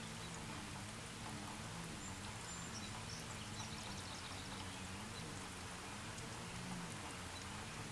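Light rain: a soft steady hiss with scattered faint drop ticks, over a low hum that wavers slowly up and down.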